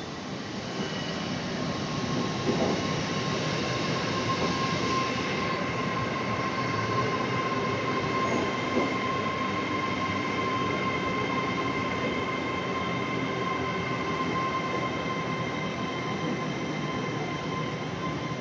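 A train running close by on the rails: a steady rumble of wheels on track with a steady high whine over it. It builds up over the first couple of seconds, then holds.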